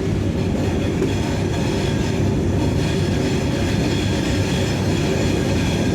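Vande Bharat express train running at speed, heard from inside the coach: a steady rumble of wheels on the track with faint steady high tones above it.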